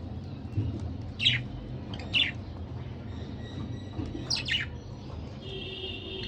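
Budgerigars chirping: short sharp calls about one and two seconds in, a quick pair of calls a little after four seconds, then a steady high whistled note near the end, over a steady low hum.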